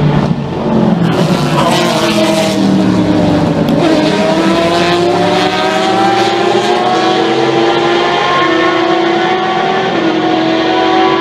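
Race car engine under hard acceleration, its pitch climbing steadily, with an upshift about four seconds in and the rise carrying on after it.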